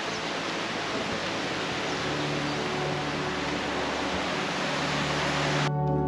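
Steady rushing noise with no clear pitch, with background music fading in underneath it about two seconds in; near the end the noise cuts off suddenly and the music carries on alone.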